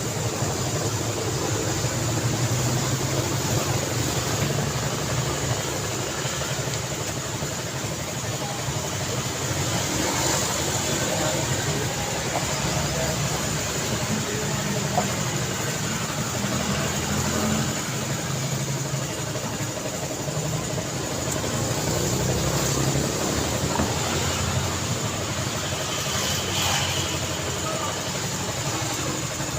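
Road traffic: car engines running and tyre noise in a steady mix, swelling gently now and then as vehicles pass.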